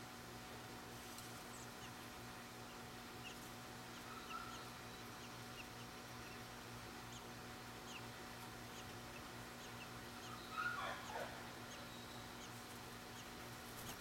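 Faint scattered bird chirps over a low steady hum. About ten and a half seconds in comes a brief louder cluster of animal calls.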